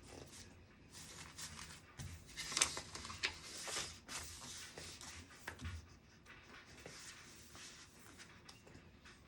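Faint desk sounds of studying: pen scratching on paper and paper rustling, with a few light taps, busiest in the middle of the stretch.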